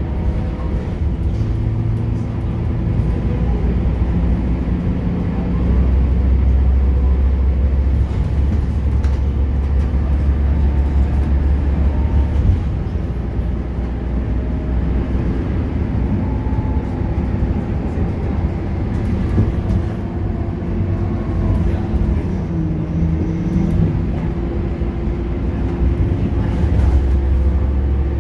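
Scania K230UB bus's diesel engine running under load through its ZF automatic gearbox, with a deep drone that swells as it pulls harder and eases off between, and shifts in pitch as the gearbox changes gear.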